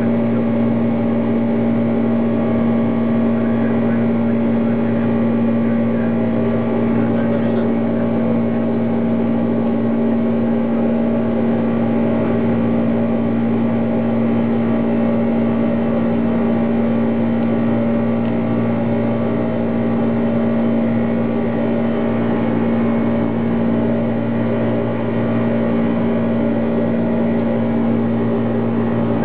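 Steady drone of a Boeing 747 heard inside the cockpit: engine and airflow noise with a strong, unchanging low hum.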